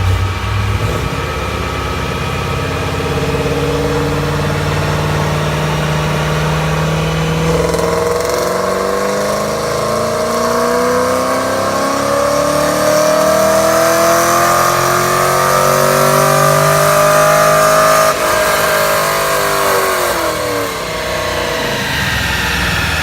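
A car's V8 engine running at a steady speed, then held wide open so that its note climbs steadily for about ten seconds in one long pull. It lets off with a click and winds back down to a low, steady run.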